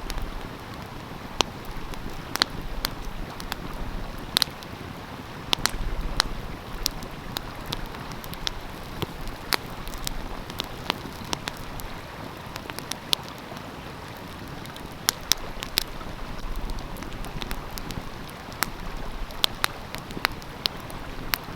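Wood fire crackling, with frequent sharp, irregular pops over the steady rush of flowing stream water.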